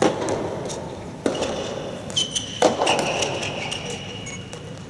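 Soft tennis ball struck by rackets during a rally: three sharp hits about a second and a half apart, echoing in a large hall. A high drawn-out squeak starts about halfway through.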